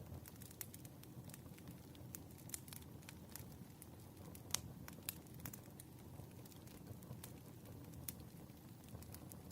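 Wood fire burning: scattered crackles and pops over a low steady rumble, the sharpest pop about four and a half seconds in.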